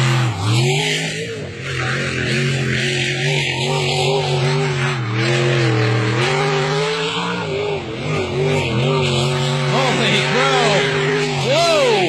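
Racing boat engine running hard, its pitch wavering up and down, with several quick rising-and-falling pitch sweeps near the end.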